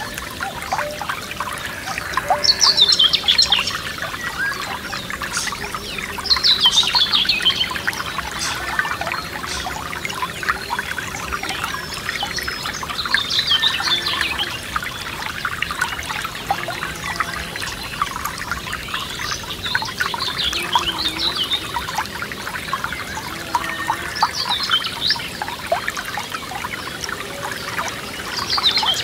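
A forest stream trickling and splashing over stones, steady throughout. Over it a songbird sings a short falling phrase every few seconds, about six times.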